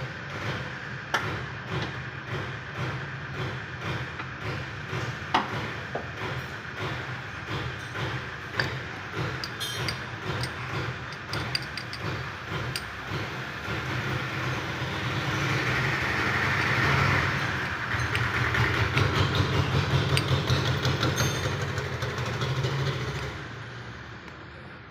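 Suzuki Swift running, a steady low engine hum with repeated sharp knocks and clicks: the front-side noise fault the car has. The sound grows louder about halfway through and fades away near the end.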